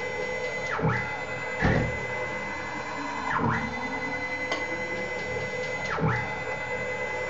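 Stepper motor drive of a Fehlmann Picomax 50 CNC coordinate table rapiding its Y axis back and forth. It gives a steady high whine that sweeps down and back up at each reversal, about every two and a half seconds, three times. A low thump comes early on one stroke. The grunting does not mean the motors are losing steps.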